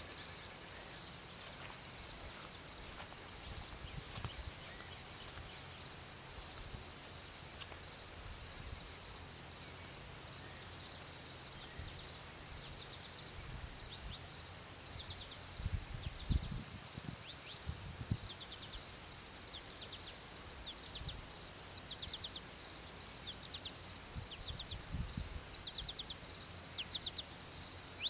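A steady, high-pitched trilling chorus of insects in a garden, with small birds giving quick repeated chirps from about halfway. A few low thumps near the middle and toward the end.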